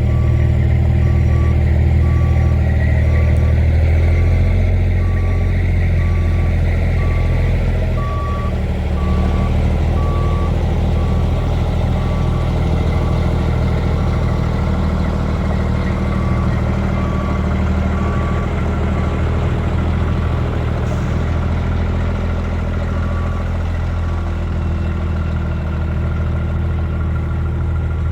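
International 8100 dump truck's Cummins M11 diesel idling steadily while it builds air pressure. A warning beep repeats about one and a half times a second, growing patchy and stopping about 24 seconds in; this is typical of the low-air-pressure warning while the air system fills.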